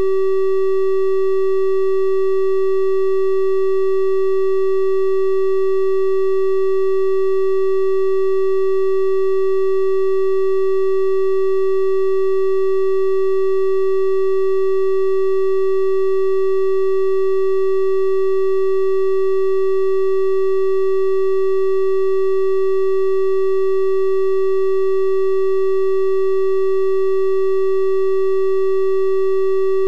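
Synthesized 384 Hz triangle-wave tone, holding one steady pitch at a constant level without a break.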